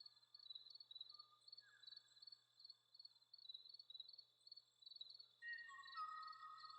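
Faint nature soundscape: insects chirping in a high, even pulse about three times a second. About five seconds in, a bird adds long, steady whistled notes.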